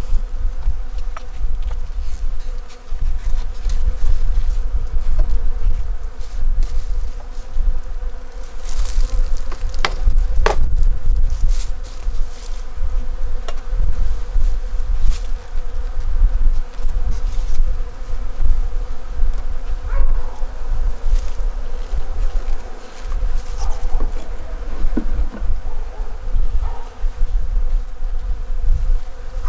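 Honeybees humming steadily around an opened hive, a dense buzz held for the whole stretch, over a constant low rumble with a few sharp clicks about nine and ten seconds in.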